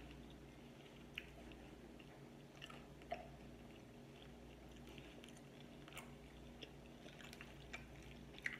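Faint chewing of a mouthful of food with the mouth closed: soft, scattered wet clicks every second or so over a low, steady room hum.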